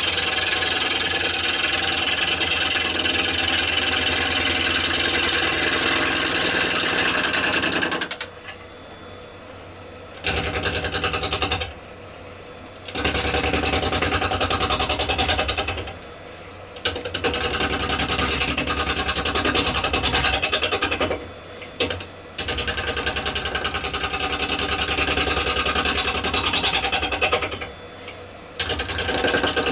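Bowl gouge cutting a spinning rowan bowl blank on a wood lathe, a loud rasping cut with a rapid beat from each turn of the blank. The cutting stops five times for a second or two, leaving the lathe's lower hum.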